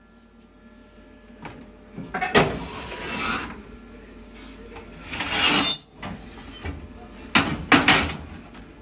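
Kitchen items being handled: a few sharp knocks and a brief rustling scrape.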